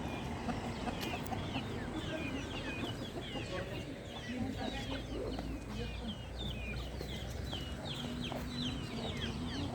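Chickens calling, many short, high, falling chirps overlapping one another without a break.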